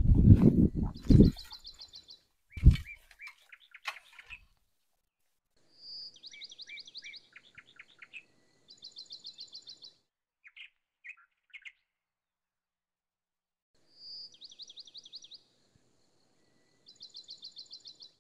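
A small songbird singing the same phrase over and over: a high note, then a fast high trill and a few lower notes, repeated about four times with pauses between. At the start there is a loud rumbling noise, and then a single thump.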